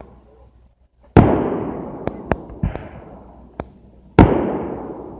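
Fireworks show: two loud aerial shell bursts about three seconds apart, each a sharp bang followed by a long fading rumble, with four short sharp cracks in between.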